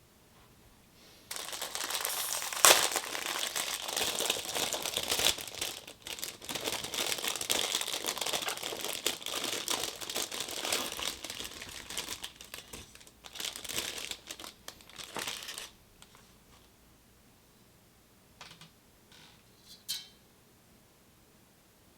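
Packaging crinkling and rustling as it is handled for about fourteen seconds, with a sharp crackle a couple of seconds in. It stops abruptly, and a few faint clicks follow near the end.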